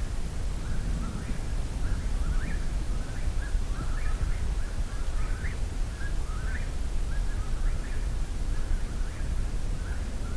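Several Eastern whip-poor-wills singing all around, their short rising whistled phrases repeating steadily and overlapping, over a low rumble.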